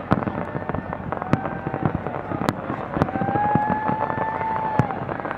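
Aerial fireworks display: sharp bangs every second or so over a continuous crackle, with a steady whistling tone held for about two seconds in the middle.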